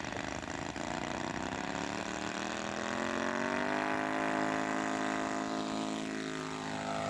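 Radio-controlled model airplane engine running at full throttle on takeoff, its pitch rising as it speeds up, then holding steady, then falling near the end.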